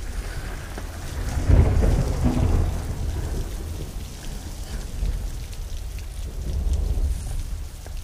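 Water noise on a spearfishing camera's microphone: a steady low rumble with a louder surge of sloshing about a second and a half in.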